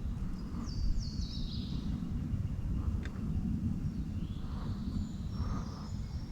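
Songbirds singing over a steady low rumble: a quick run of high notes stepping down in pitch about a second in, and another thin, high song near the end.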